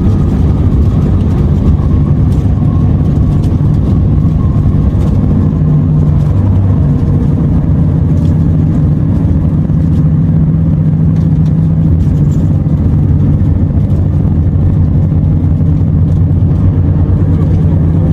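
Renault T480 truck's six-cylinder diesel engine running steadily while driving, a loud, even low hum.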